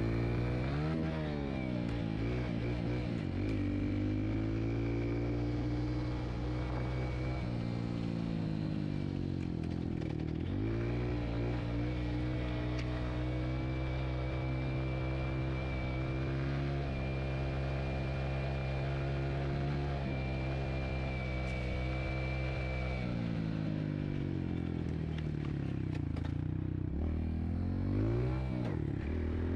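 Dirt bike engine running as it is ridden: it revs up and down a few times, holds a steady speed for about ten seconds, then rises and falls again near the end.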